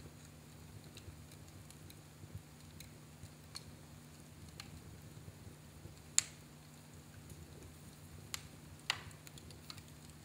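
Fire in a fireplace crackling: scattered small snaps and pops, with two sharper pops about six seconds in and near nine seconds, over a faint steady low hum.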